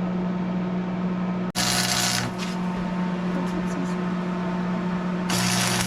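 Electric welder humming steadily, with two short bursts of loud arc crackle as the stacked steel layers of a Damascus billet are tack-welded together.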